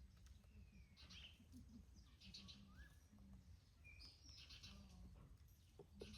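Faint bird calls: short chirps, a few quick rising whistles and bursts of rapid high twittering, about one a second, over a low steady hum.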